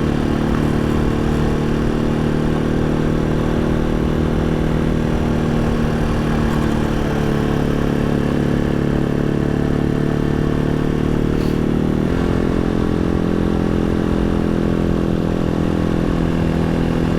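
Janus Halcyon 250 motorcycle's single-cylinder engine running steadily while riding on a gravel road; the engine note steps to a new pitch about twelve seconds in.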